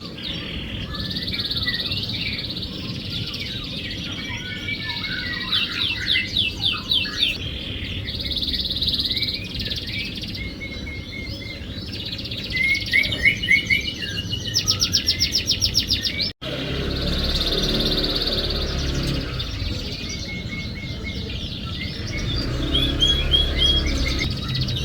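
Domestic canary singing a long, varied song of rapid trills and quickly repeated chirping notes, with a brief break past the middle. It is a lure song, played to prompt canaries that are reluctant to sing.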